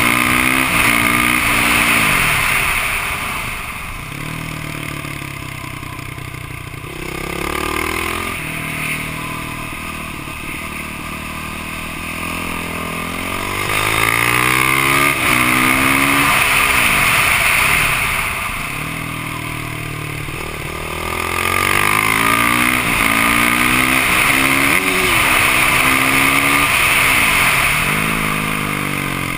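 Yamaha YZ450F single-cylinder four-stroke engine under hard acceleration, its pitch climbing and stepping through the gears in several bursts, with quieter stretches off the throttle between them. A steady rush of wind noise runs underneath.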